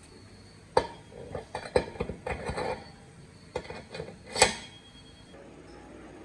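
Metal parts knocking and clattering: a string of sharp clanks, the loudest one late, which rings on briefly.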